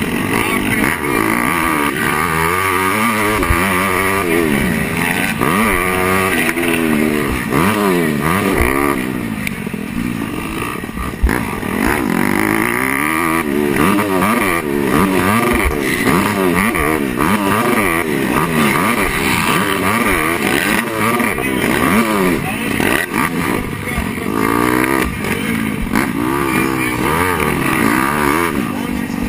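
Motocross bike engine under race load, revs repeatedly climbing and falling as the rider accelerates, shifts and backs off through the course, with a few sharp knocks.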